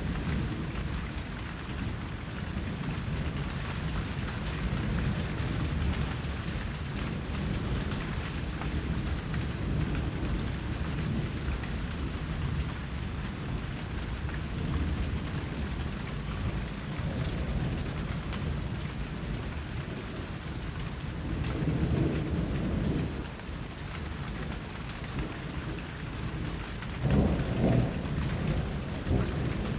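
Steady heavy rain with low, continuous rumbling of thunder. The rumble swells louder about two-thirds of the way through and again near the end.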